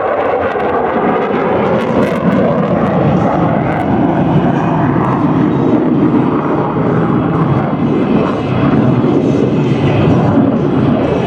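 F-22 Raptor jet fighter flying a demonstration pass, a loud continuous jet roar whose pitch slides down near the start as it goes by.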